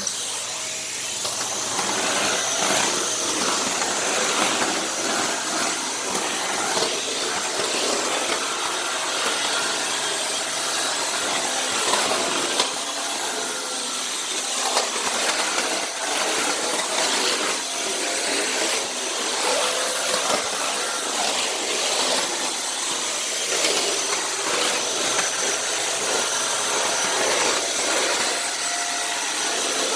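Dyson Cinetic canister vacuum running steadily with a thin high-pitched motor whine, its floor head pushed back and forth in rasping, rubbing strokes.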